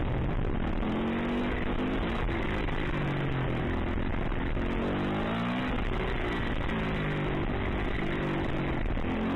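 Dirt bike engine revving hard, its pitch climbing and dropping back again and again as it is ridden and shifted through the gears, over a steady rush of noise.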